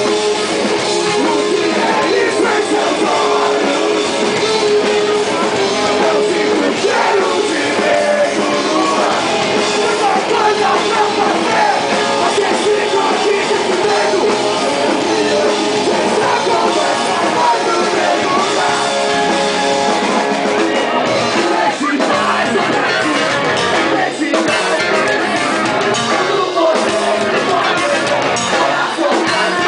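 Live punk rock band playing loud, with distorted electric guitars, drums and shouted vocals.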